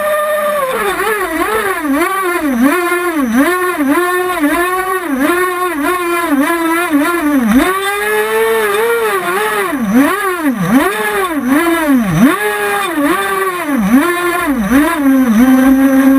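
Small, very high-revving engine of a model boat, revved up and down in quick swings about twice a second, then settling back to a steady lower note near the end.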